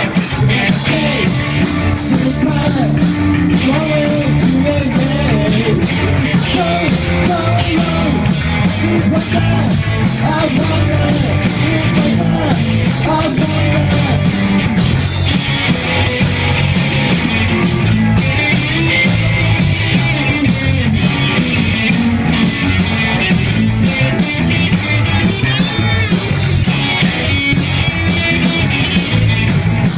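Rock music with a singing voice over a steady band rhythm.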